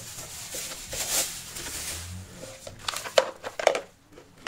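Hard plastic food storage containers being handled and set down, a rustle first and then a few sharp knocks about three seconds in.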